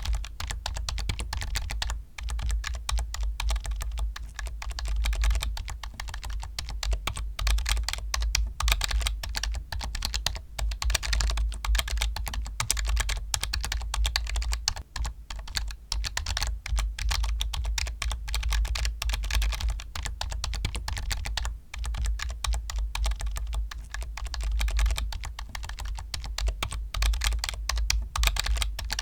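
Fast, continuous typing on a computer keyboard, a dense run of key clicks with a few short pauses.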